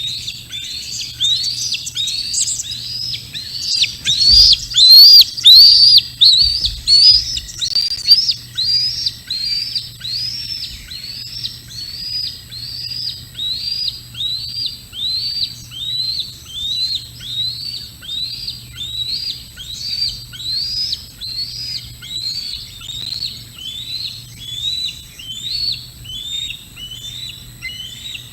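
A bird calling over and over, about two high notes a second, each rising and then dropping in pitch. The calls are loudest around four to six seconds in, where a couple of low thumps also come through.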